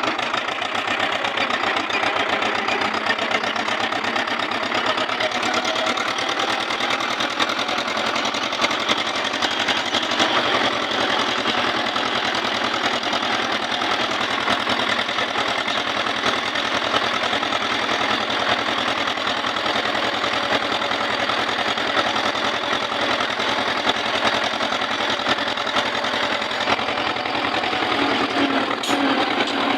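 Tractor diesel engine running steadily with a fast, even beat.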